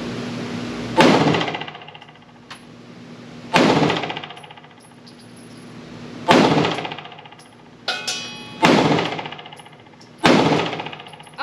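Five 9mm pistol shots from a PSA Dagger compact, fired slowly about two and a half seconds apart, each echoing off the indoor range. Two fainter cracks fall between the shots, over a steady ventilation hum.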